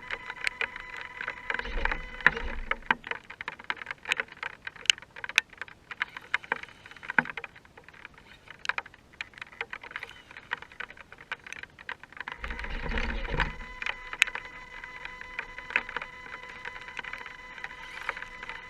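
Radio-controlled scale rock crawler on a wet trail: irregular clicks and ticks over a steady high whine, with two louder low rumbles about two seconds in and again around thirteen seconds.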